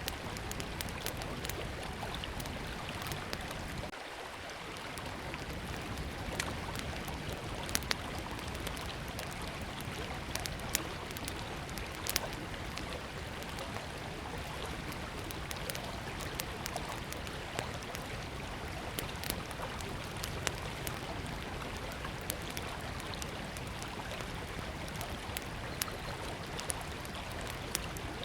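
Small wood campfire crackling, with scattered sharp pops and snaps, over the steady rush of a flowing river.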